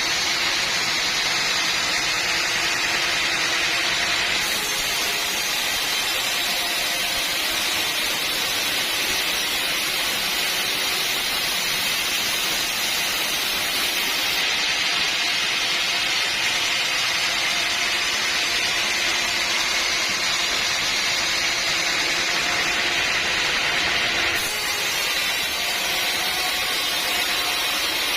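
Sawmill machinery running continuously, a saw cutting timber with a steady hiss and whine. The sound changes character three times, about every ten seconds.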